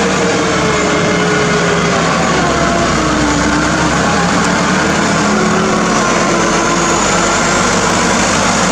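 Hino truck's diesel engine running steadily and loud. The engine note sinks a little over the first few seconds and rises again past the middle.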